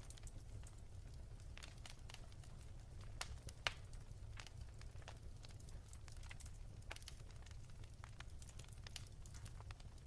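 Wood fire crackling: irregular small snaps and pops, with one louder pop a little over a third of the way through, over a steady low rumble.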